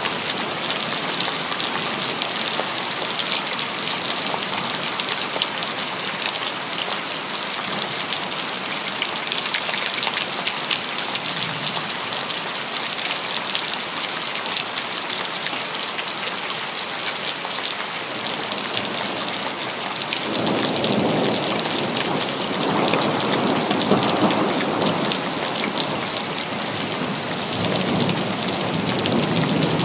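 Steady rain falling, with rolls of thunder rumbling in about two-thirds of the way through and again near the end.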